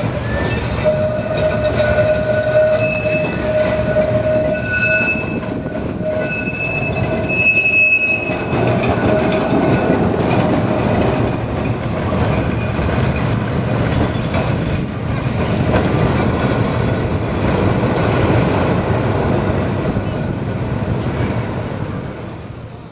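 Blackpool tram running on its rails, its wheels squealing in steady held tones for about the first eight seconds, then a rougher rumble of wheels on track. The sound fades out at the end.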